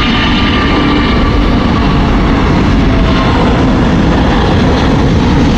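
Airbus A380's jet engines at takeoff thrust just after rotation: a loud, steady rumble with faint whining tones over it.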